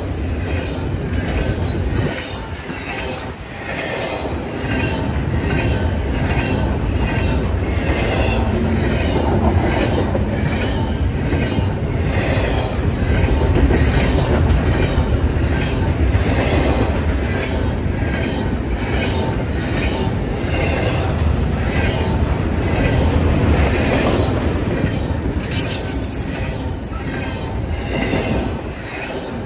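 Freight train rolling past, its cars clattering over the rail joints in a steady, even rhythm over a continuous rumble.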